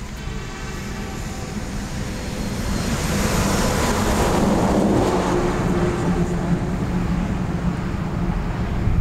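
Approaching Norfolk Southern SD70ACE diesel locomotive and its train: a low engine rumble and running noise that swells about three seconds in and then holds steady.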